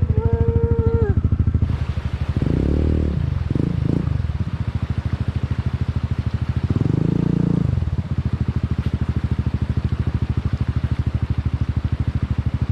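Vehicle engine running at low revs with a steady pulsing throb, its pitch shifting briefly a few times.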